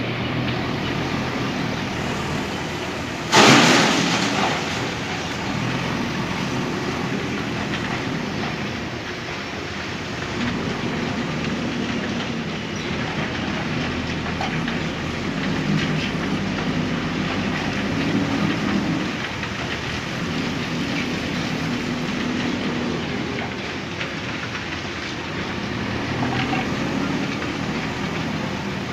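Backhoe loader's diesel engine running under working load, its note rising and falling, with a loud bang about three and a half seconds in.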